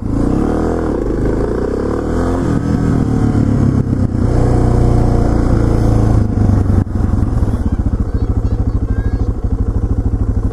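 Suzuki DR650SE single-cylinder motorcycle engine running, its revs rising and falling as it rides. About seven seconds in it drops back to idle, with an even, pulsing beat.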